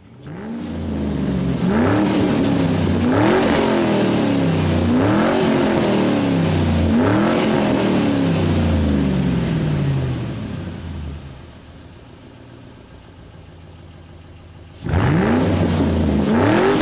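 Car engine being free-revved in repeated blips, its pitch jumping up and sliding back down about every two seconds. It then drops to a quieter idle for a few seconds before another sharp rev near the end.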